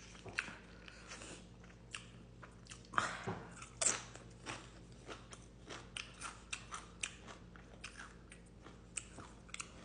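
A person chewing food close to the microphone: soft wet mouth clicks and smacks, with a few louder crunchy bites about three to four seconds in.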